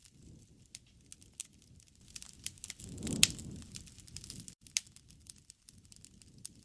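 Campfire wood crackling with irregular sharp pops, the loudest a bit over three seconds in. A low rumble of the burning fire swells up from about three to four and a half seconds.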